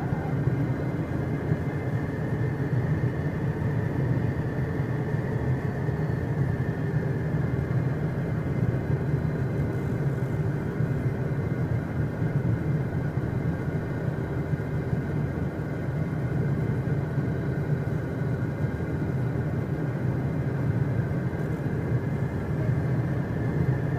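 Cockpit noise of a Beechcraft Premier 1A on the ground, its twin turbofan engines running at low power: a steady low rumble with a thin, steady whine over it.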